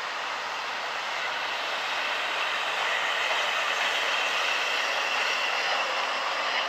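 A Qube container freight train running past on its rails, with a tram passing in front of it. The noise grows louder over the first few seconds, then holds steady.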